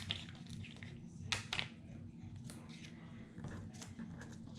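Small paper-craft handling noises: a sharp click at the start, then a couple of crisp clicks and paper rustles about a second and a half in, over a low steady hum.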